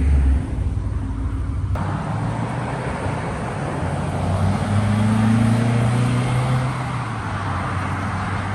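Modified Ford Mustang's 5.0-litre V8 rumbling at low speed, its note rising slightly around the middle.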